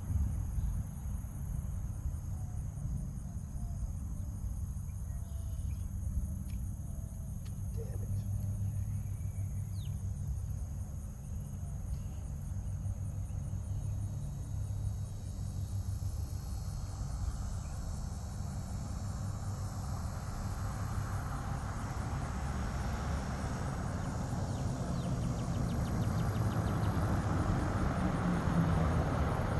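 Insects trilling steadily in a fast, even, high-pitched chorus over a constant low rumble, with a noisy hiss swelling in the second half.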